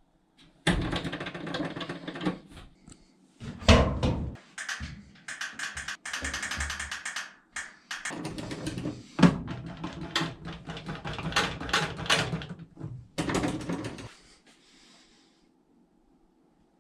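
Irregular clattering and knocking, a rapid run of clicks and rattles that stops about three seconds before the end.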